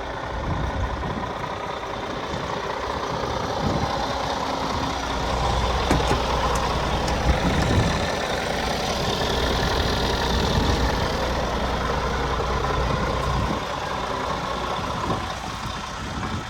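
Scania R450 truck's 13-litre inline-six diesel engine running steadily. It gets louder about a third of the way in and drops back after about thirteen seconds.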